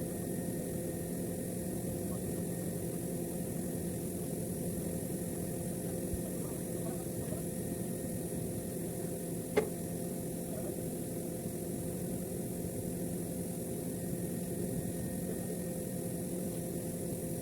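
Steady mechanical hum of running machinery, with one sharp click about ten seconds in.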